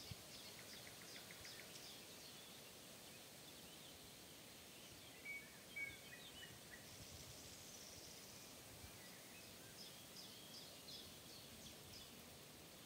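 Faint birdsong in a forest: scattered high chirps and a short rapid trill, with a few louder notes about five to six seconds in, over a steady soft background hiss.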